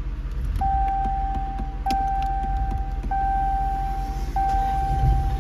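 A car's electronic warning chime sounding over and over, a steady tone of about a second and a quarter restarting back to back, from a Dodge Charger Scat Pack whose engine has just shut itself off. A few light clicks come in near the two-second mark over a low rumble.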